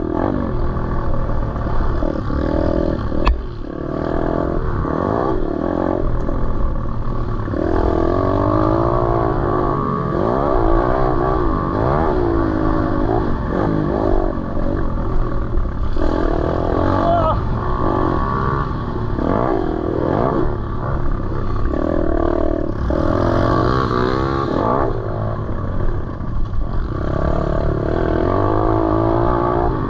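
Single-cylinder four-stroke pit bike engine ridden hard off-road, its pitch repeatedly climbing and dropping as the throttle opens and closes and the gears change. There is a sharp click about three seconds in.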